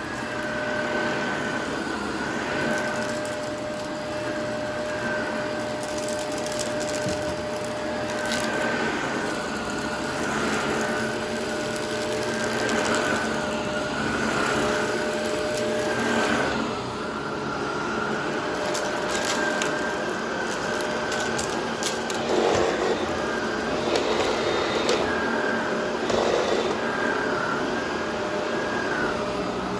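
Vacuum cleaner running continuously, its motor whine wavering and dipping slightly as it is worked, with scattered crackles of debris being sucked up.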